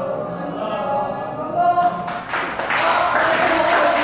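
Many voices of a kendo class calling out together in one long, held unison call, then from about two seconds in a loud noisy clatter and rustle of the group moving or clapping.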